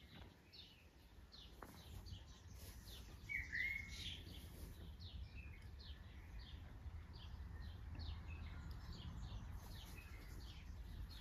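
Birds chirping outdoors: a steady run of short, quick, downward-sliding chirps, with one louder, lower call about three and a half seconds in, over a faint low rumble.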